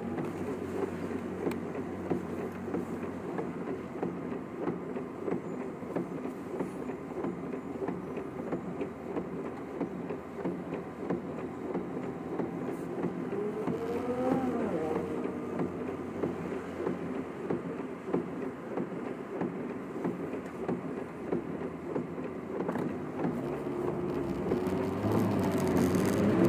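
Car being driven, its engine and road noise heard from inside the cabin. A brief rising whine comes about halfway through, and the noise grows louder near the end.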